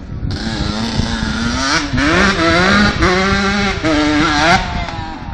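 Motocross motorcycle engine running hard close by, its pitch rising and dropping several times with the throttle. It swells about a second in and fades near the end.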